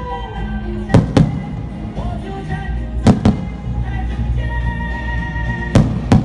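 Firework shells bursting in quick pairs, three pairs about two seconds apart, over loud music.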